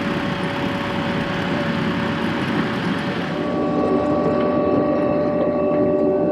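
Gehl skid steer loader's diesel engine and hydraulics running under load while grading stone, a steady drone; about three and a half seconds in the hiss fades and a set of steady whining tones takes over.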